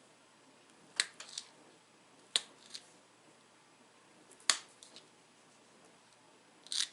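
Sharp snapping clicks of flakes popping off a dacite point under a pressure flaker. There are three strong snaps a second or two apart, each followed by one or two fainter ones, and a quick cluster near the end.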